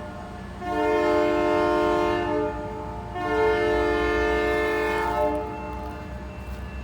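Diesel locomotive air horn sounding a multi-note chord in two long blasts, the second one tailing off, over a low rumble of the train. Two long blasts is the railway signal that the train is about to proceed.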